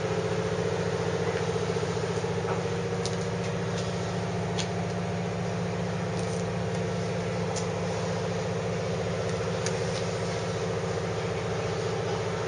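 Steady mechanical hum, unchanging throughout, with a few faint ticks.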